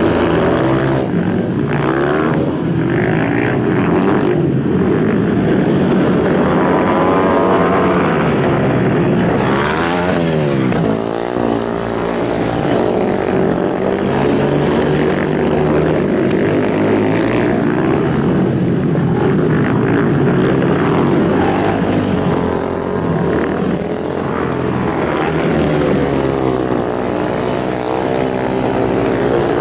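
Several high-revving motorcycle engines running together in a race, pitch rising and falling as they rev and shift. There is a marked drop and climb in pitch about ten seconds in.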